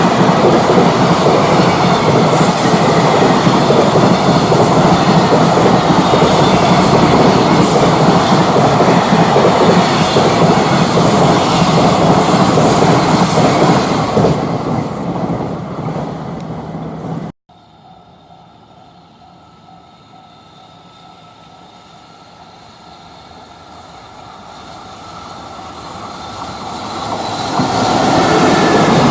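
A freight train running past close by, its wheels rumbling and clacking over the rail joints with some wheel squeal. The sound fades after about 14 seconds and cuts off abruptly, leaving quiet trackside ambience. Near the end a second train approaches and grows steadily louder.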